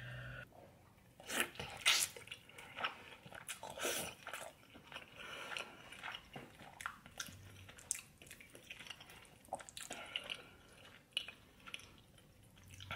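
Close-miked eating of braised oxtail stew: wet chewing, biting and lip smacks, heard as irregular short smacks and clicks.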